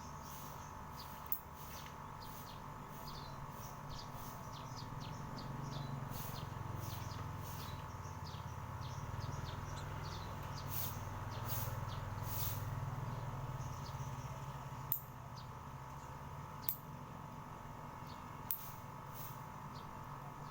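Small birds chirping in quick, high twitters, over a steady hum and a low rumble that swells in the middle. A few sharp clicks stand out, one about a second in and a few near the end.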